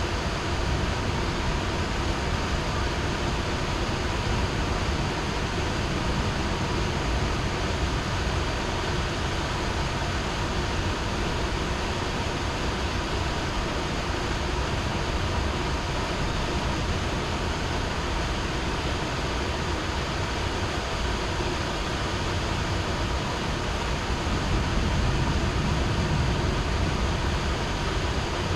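Heavy rain falling steadily, an even hiss and patter with a deep low rumble underneath that swells slightly near the end.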